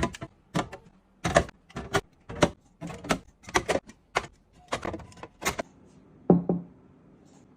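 Containers and other hard items being handled and set down while a refrigerator is arranged: a run of sharp clicks and knocks, one or two a second, then a duller thump about six seconds in.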